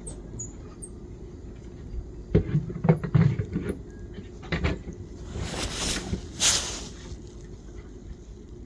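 A few faint, high, short chirps from small wild birds at a feeder, with dull thumps and handling knocks and two loud hissing rushes like wind or rustling over the microphone.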